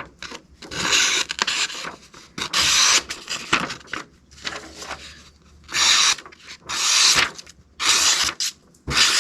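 Knife blade drawn across a Sharpal 162N diamond sharpening plate: about six separate rasping strokes of under a second each, at an uneven pace, knocking off the burr before the water stones.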